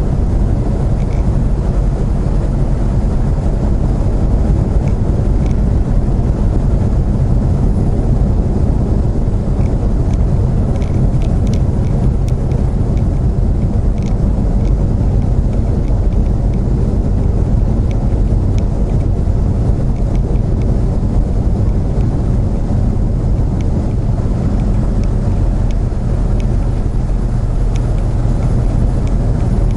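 Steady drone of a semi-truck's diesel engine and road noise heard inside the cab while climbing the grade, with a few faint ticks.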